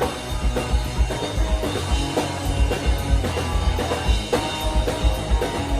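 Live punk rock band playing an instrumental passage: a driving drum kit with bass drum and cymbals, electric guitars and bass.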